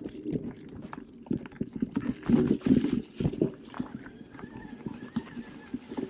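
Specialized Turbo Kenevo SL electric mountain bike ridden over a rough forest trail: an uneven run of knocks and rattles from the bike and its tyres, busiest about two to three and a half seconds in.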